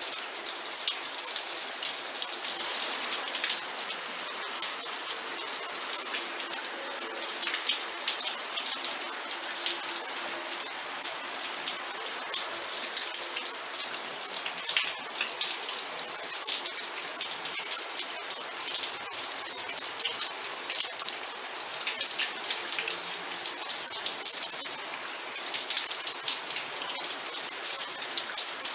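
Steady, even rain, with a dense scatter of individual drops clicking down.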